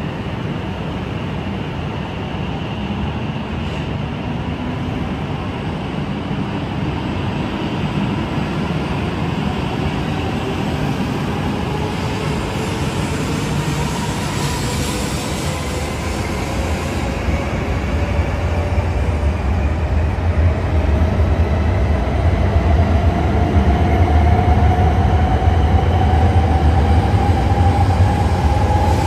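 Coupled E8 and E5 series Shinkansen train accelerating away from the platform: the motor whine rises steadily in pitch while the rolling rumble grows louder through the second half.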